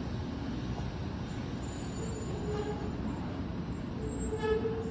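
Steady hum of a 700 series Hikari Rail Star shinkansen standing at the platform, with short tones sounding once near the middle and again, louder, near the end.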